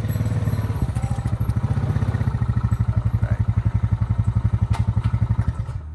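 A vehicle engine running, settling into a slow, even idle throb about a second in, then shut off near the end.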